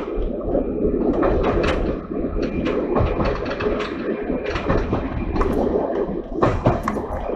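Class 117 diesel multiple unit running along the line, heard from inside the rear cab: a steady low rumble of wheels on rail with frequent irregular clattering and rattling knocks.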